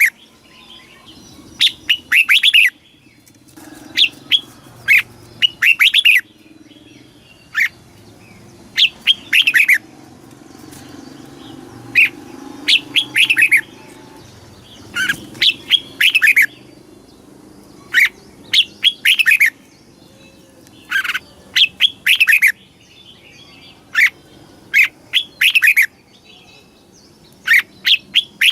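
Red-whiskered bulbul singing: short phrases of quick, falling whistled notes, repeated every second or two over a faint low hum.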